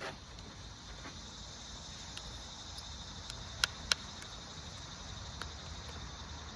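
Steady chirring of crickets, with two sharp clicks close together a little over halfway through.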